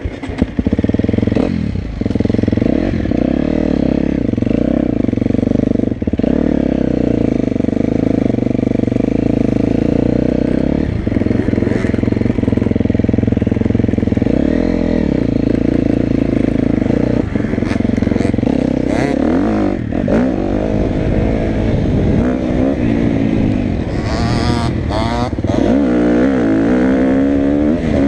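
Motocross dirt bike engine being ridden hard, its note rising and falling with the throttle, with brief drops every few seconds and quick revving swings near the end.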